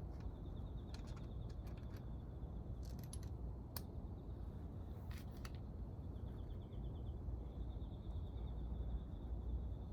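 Scattered light clicks and taps over a low steady rumble, with a faint high pulsing chirp coming and going.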